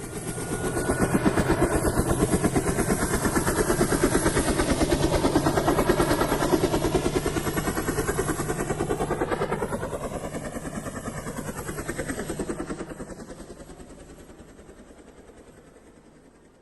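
Helicopter rotor beating in a fast, even chop. It swells up at the start, stays loud, then fades away over the last few seconds as if flying off.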